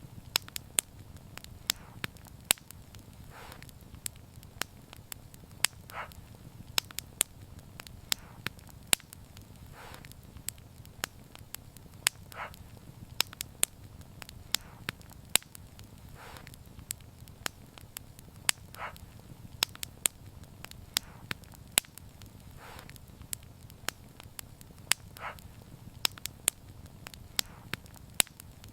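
Wood fire crackling, with frequent sharp pops of varying loudness over a low steady rumble of burning. A short, softer puff recurs every three seconds or so.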